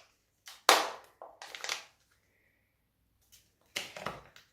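Crunching and scratching of old, broken-down orchid potting medium and roots being pulled apart by hand: a few short bursts, a pause, then more.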